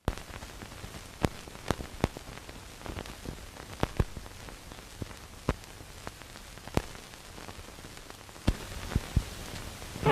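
Steady hiss with about a dozen irregular sharp clicks and pops: surface noise of a worn 1930s optical film soundtrack.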